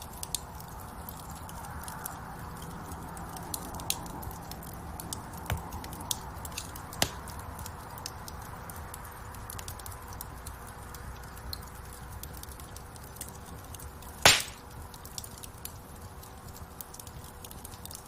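Wood fire burning in a fireplace: a steady rush of flames with frequent small crackles and one loud pop about three-quarters of the way through.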